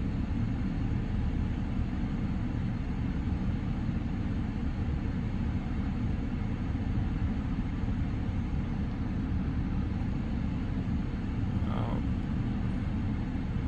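BMW N55 turbocharged inline-six idling steadily, a constant low rumble, while the car's electronic oil-level check runs after an oil change.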